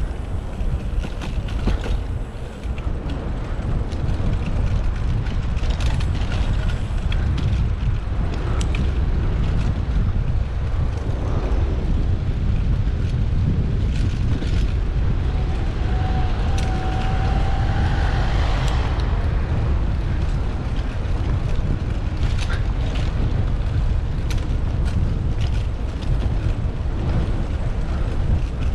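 Wind buffeting the microphone of a bike-mounted camera on a moving Brompton folding bicycle: a steady, loud low rumble with scattered clicks and rattles from the bike over the road surface. About sixteen seconds in, a short high tone sounds for roughly two seconds.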